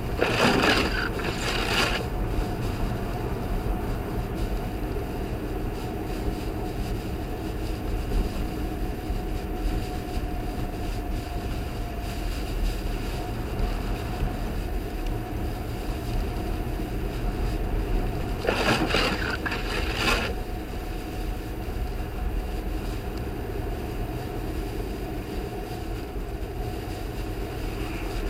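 Steady road and engine noise of an Audi quattro driving on snowy, icy streets, heard from inside the car. Twice, about a second in and again about two-thirds of the way through, there is a louder hissing rush lasting a second or two.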